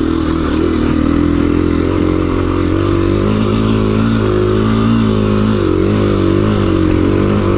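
2017 KTM 350 EXC-F's single-cylinder four-stroke engine running under load on a trail climb. Its pitch rises and dips with the throttle through the middle.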